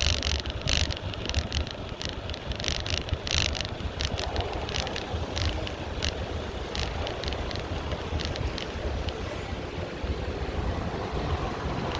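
Bicycle ride heard from the bike: a steady low wind rumble on the microphone, with frequent sharp rattles and clicks that thin out about two-thirds of the way through.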